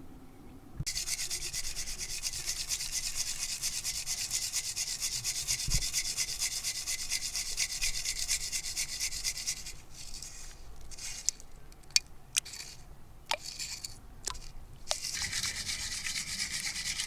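Gravel and grit scraping and rattling in a gold pan as it is worked: a continuous gritty hiss that breaks off about ten seconds in for a few scattered clicks of stones, then starts again near the end.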